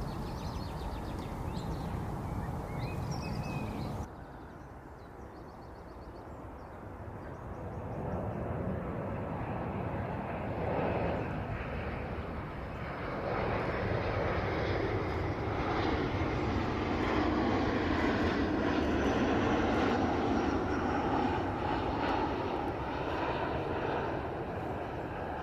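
Distant rumble of a jet airliner passing high overhead, swelling over several seconds to a peak and then slowly fading. A different steady sound runs for the first few seconds and breaks off suddenly.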